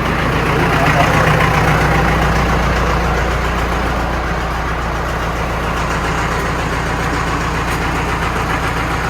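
AGCO 6670 loader tractor's diesel engine running steadily.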